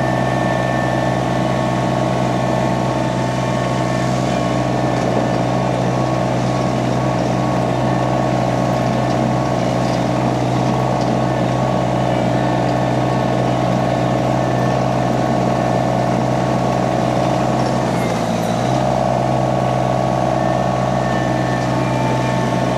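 Mini skid steer's engine running steadily at working speed while the loaded machine is driven, with a brief dip in the engine note about eighteen seconds in.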